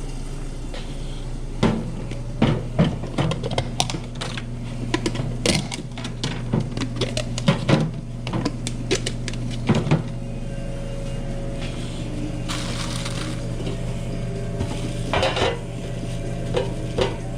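Bowls, pans and utensils clattering and clinking as ramen orders are put together on a restaurant kitchen line, with a steady low hum of kitchen equipment underneath. The knocks come thick for the first ten seconds or so, and again briefly near the end, with a short hiss in between.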